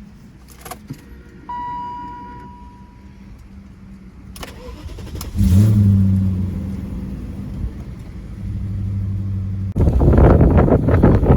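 A few clicks and a short electronic tone, then the 2001 BMW 540i's 4.4-litre V8 starts about five seconds in, flaring loudly at first and then settling to a steady idle. Near the end the sound turns abruptly louder and rougher.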